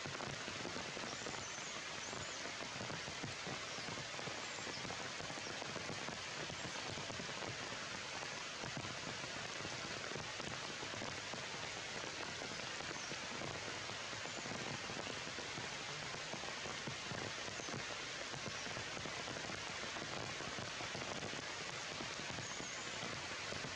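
Heavy rain falling steadily on forest leaves, an even hiss with no breaks.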